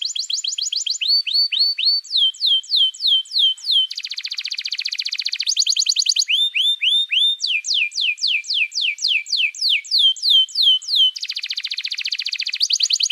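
Songbird song used as a masteran training track: rapid series of clear, high whistled notes that switch between repeated falling sweeps and very fast buzzy trills every second or two.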